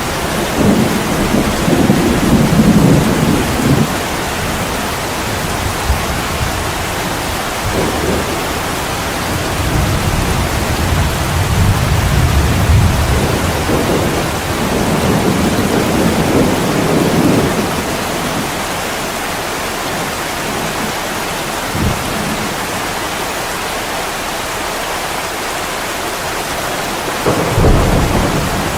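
Heavy rain falling steadily, with several low rolls of thunder swelling and fading over a few seconds each, and a shorter, sharper rumble near the end.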